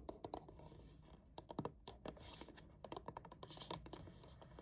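Faint, irregular light tapping and clicking from hands handling a boxed mechanical keyboard, a quick run of sharp taps a little past a second in.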